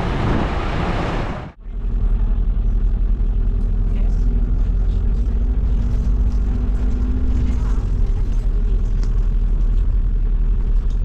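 A sightseeing bus running: a loud, steady low rumble. It starts abruptly about one and a half seconds in, after a cut from busy street noise.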